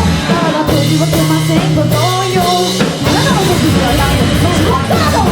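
Loud punk rock played by a live band: drum kit, distorted guitar and bass, with a voice or guitar line sliding in pitch.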